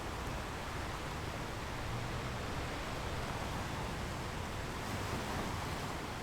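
Ocean surf washing on a beach: a steady, even rush of wave noise with no single breaking wave standing out.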